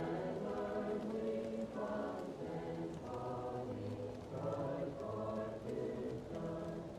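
Choir singing sustained chords in slow, swelling phrases, muffled as if heard from another room. Faint fireplace crackling ticks underneath.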